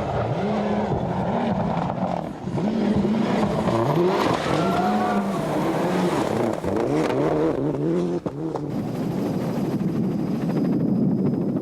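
Rally car engine revving hard at speed, its pitch climbing and dropping again and again through gear changes. From about nine seconds in the engine gives way to a steadier noise with a faint high whine.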